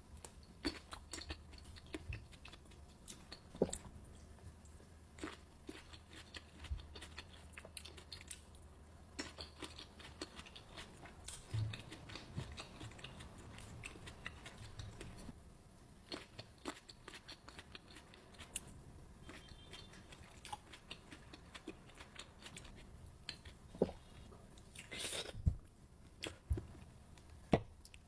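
Close-miked eating sounds of a person biting and chewing fresh fruit: scattered wet crunches, bites and small clicks, with a few louder bites near the end.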